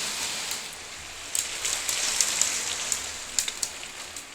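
Rainwater streaming in through a leaking window and dripping: a steady splashing hiss, with sharp drip ticks from about a second in.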